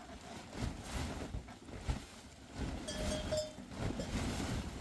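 Bells on a flock of sheep and goats ringing briefly, with a couple of short clear bell tones about three seconds in, over a low uneven rumbling noise.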